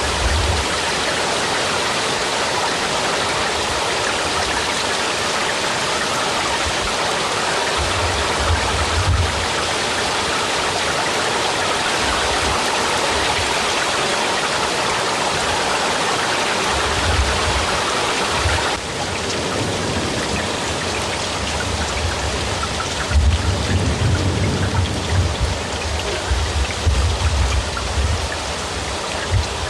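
Steady heavy rainfall, a dense even hiss of drops, with bouts of low rumbling now and then. A little past halfway the rain turns slightly quieter and changes texture.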